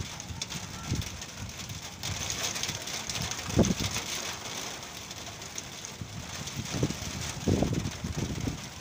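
Rain falling as a shower begins, a steady hiss, with gusts of wind buffeting the microphone several times, the strongest about three and a half seconds in and again near the end.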